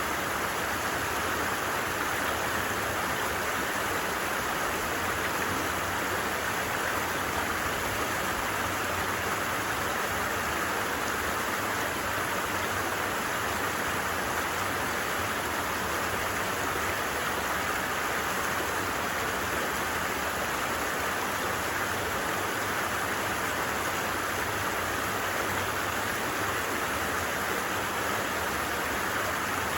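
Stream water rushing steadily over rocks, an even hiss with no change in level and no birdsong standing out.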